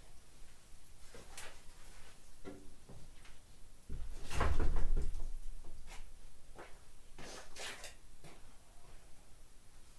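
Scattered knocks and clatter from hands-on work stripping a car trailer, with one louder, heavier clunk and rumble about four seconds in.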